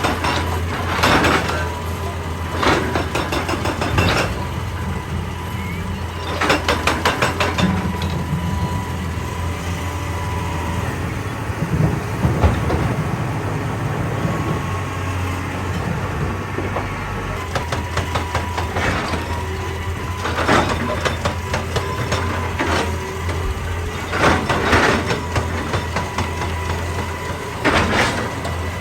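Excavator diesel engine running steadily under load. Several short bursts of rapid hammering come over it: a hydraulic rock breaker pounding rock.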